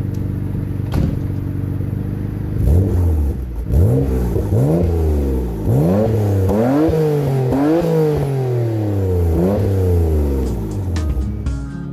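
Nissan RB26 twin-turbo straight-six, swapped into a 240SX, idling steadily and then blipped about seven times in quick succession, each rev rising sharply and falling back, before settling to idle. Guitar music comes in near the end.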